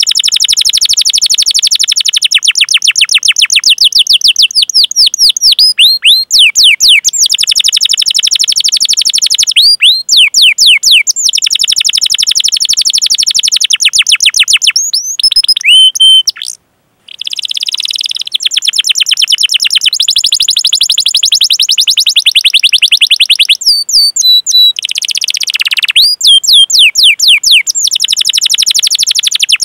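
Domestic canary singing long rolls: rapid trills of repeated high, downward-sweeping chirps, with a brief break just past the middle.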